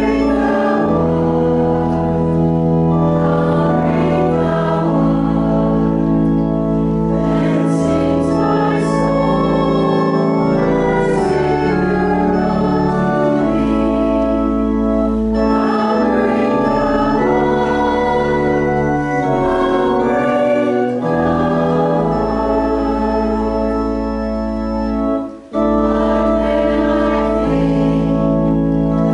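Church organ playing a hymn in held chords over a deep sustained bass, with voices singing along; the music breaks off for a moment about three-quarters of the way through, then carries on.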